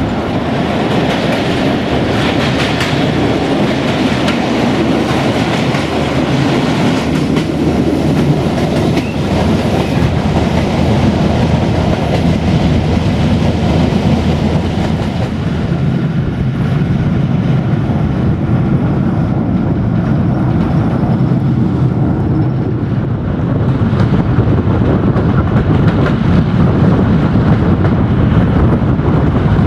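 Old Malaxa diesel railcar running at speed, heard from its open side window: a steady rumble of the engine and wheels on the rails with some clickety-clack, growing a little louder about three quarters of the way in.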